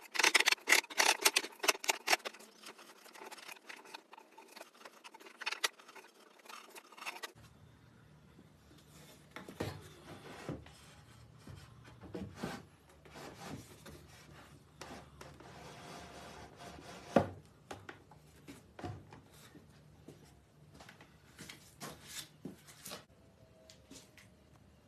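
Rubbing and scraping strokes, as of a hand tool working a surface: rapid and dense for about the first seven seconds, then sparse scrapes and taps after a change in the recording.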